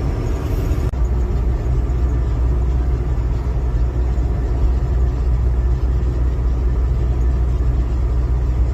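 Car driving: a steady low rumble of engine and tyre noise heard from inside the cabin.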